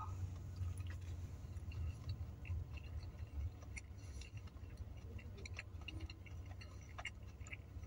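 Faint, irregular mouth clicks and smacks of someone chewing a chicken cheeseburger, over a steady low hum.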